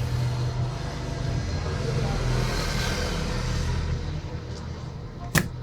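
A steady low rumble with a hiss, fading away after about four seconds, then one sharp click near the end.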